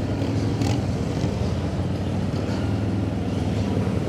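Police motorcycle engine running steadily at low revs, as on a slow-speed cone course.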